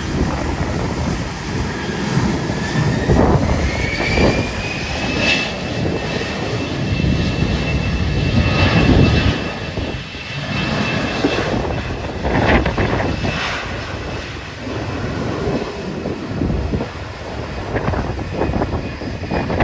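Jet aircraft engines running with a high whine that rises a few seconds in and then holds steady, as when the engines spool up, over loud, gusty wind buffeting the microphone.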